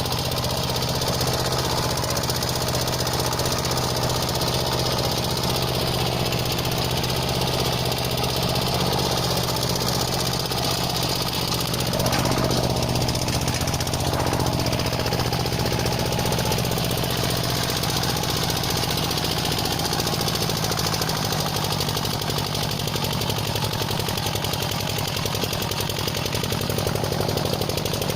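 Walking tractor's engine running steadily with a fast, even knocking beat. Its pitch wavers briefly about halfway through.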